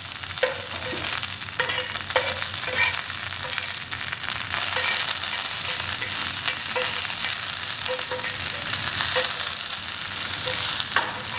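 Banana worms frying in hot oil in a non-stick pan: a steady sizzle, with short clicks and scrapes every second or so as a metal ladle stirs them.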